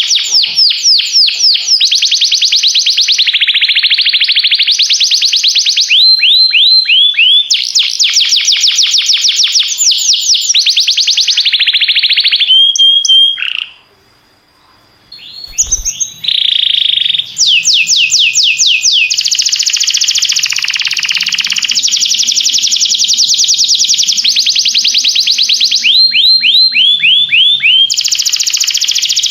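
A domestic canary singing: fast trills of rapidly repeated high notes, switching from one trill to another every second or two, with a pause of about two seconds near the middle.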